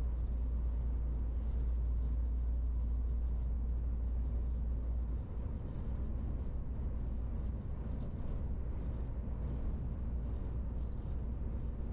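MAN TGX 18.470 truck's diesel engine running under way, a steady deep drone with road noise; the low rumble eases a little about five seconds in.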